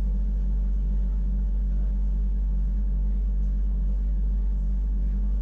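Wengernalp Railway electric rack train running, a steady low rumble and hum heard from inside the carriage.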